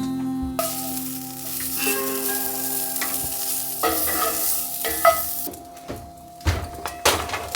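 Food sizzling in a hot frying pan, with stirring, the sizzle dropping away after about five seconds, then a few sharp knocks near the end.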